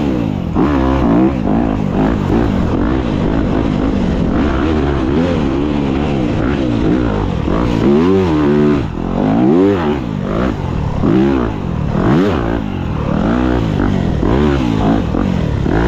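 Dirt bike engine revving up and down over and over as the throttle is opened and closed, its pitch rising and falling every second or two.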